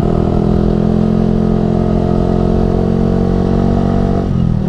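Yamaha R15 V3's 155 cc single-cylinder engine, fitted with a Ronin Musashi aftermarket exhaust, running steadily under throttle while riding. Near the end there is a brief dip in the engine note before it settles again.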